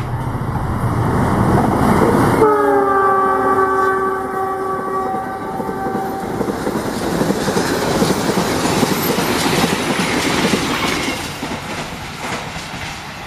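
Diesel locomotive hauling a passenger train passing at speed: its horn sounds about two and a half seconds in, several notes together falling in pitch as it goes by. The carriages' wheels then clatter over the rail joints, and the noise fades near the end as the train draws away.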